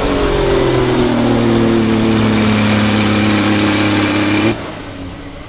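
Semi truck's diesel engine running hard under load while pulling a sled, its pitch sagging slightly and then holding steady. About four and a half seconds in, it drops off sharply to a much lower level, and the sound cuts off abruptly at the very end.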